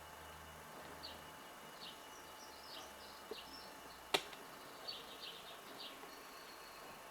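Small birds chirping in short, repeated calls, with a single sharp click about four seconds in.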